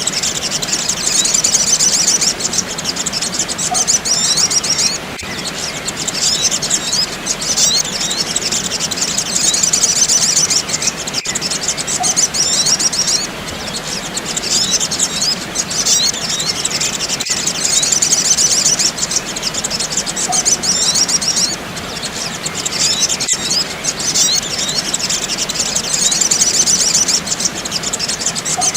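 Sunbirds calling in rapid, high-pitched chirping bursts, each a few seconds long with short gaps. The recording repeats itself about every six seconds, as a looped bird-lure track does.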